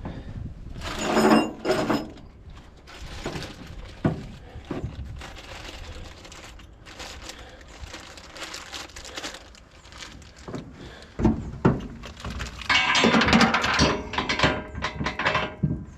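Hands-on work on steel hitch hardware: scattered knocks and clunks with longer spells of scraping and rustling, loudest about a second in and again over the last few seconds.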